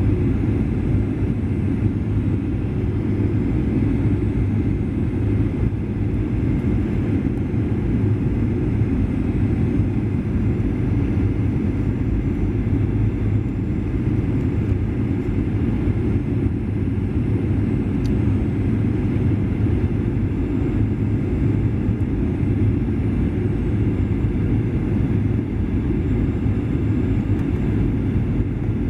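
Steady low rumble inside the cabin of a Boeing 737-800 in motion: engine and airframe noise, even throughout with no change in pitch or level.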